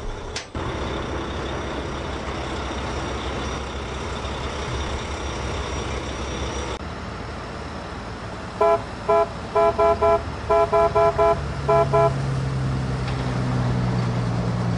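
A vehicle engine runs steadily. Partway through, a horn gives about a dozen short toots in quick clusters over some three seconds, and then a low steady hum sets in.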